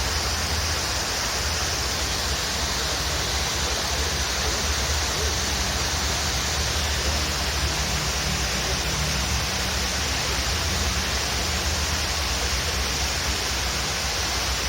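Steady rushing of a waterfall, an even unbroken wash of water noise.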